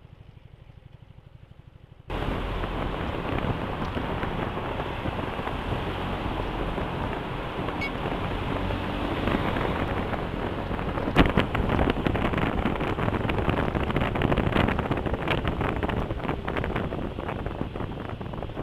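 Riding on a BMW C400GT maxi-scooter: wind rushing over the camera microphone with the engine running underneath, jumping sharply louder about two seconds in as the ride gets under way, with one sharp click about eleven seconds in.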